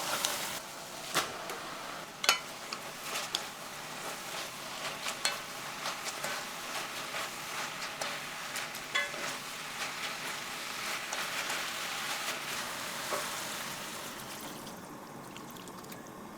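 Food sizzling and crackling in a frying pan, with a few sharp taps from a utensil. The sizzle dies down near the end.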